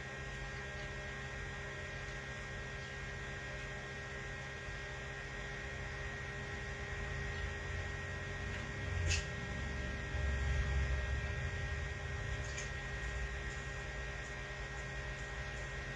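Steady electrical hum made of several thin constant tones, with low bumps and rumbling between about eight and twelve seconds in and one sharp click about nine seconds in.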